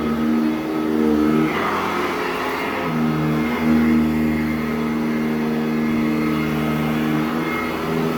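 Sanitaire SC899 commercial upright vacuum running on carpet, its steady motor hum stepping up and down slightly in pitch. A brief rushing noise comes in about a second and a half in.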